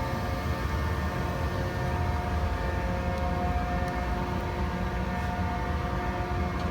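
1967 Rockford hydraulic open side planer running under power: a steady hum and whine made of several even tones over a low rumble, from its hydraulic pump and drive.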